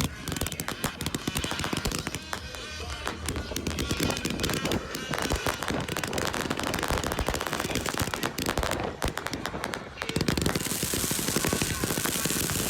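Firecrackers going off in a rapid string of sharp pops and cracks; about ten seconds in the popping gives way to a steadier hissing crackle.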